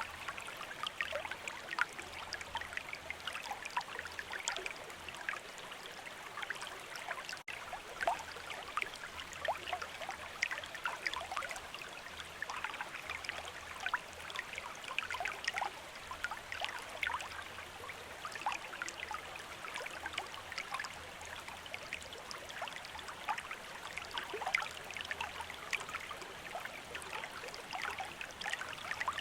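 Stream water running steadily, with constant fine bubbling and splashing, broken by a split-second dropout about seven seconds in.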